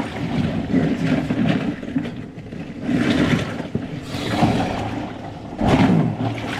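Slushy ice water in a chest-freezer ice bath sloshing and churning as a person climbs in, swelling and easing several times.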